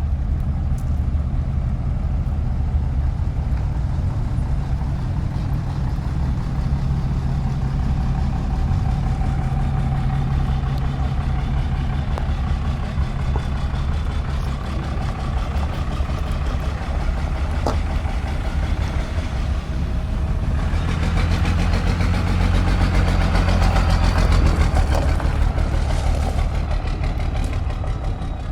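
A truck engine running steadily with a low rumble. About two-thirds of the way in it grows louder for several seconds, then eases back.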